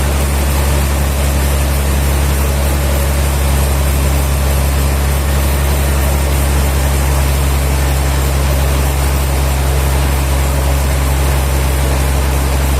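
Sawmill machinery running steadily: a loud, constant low engine-like hum under a wash of noise, with no cutting strokes or changes.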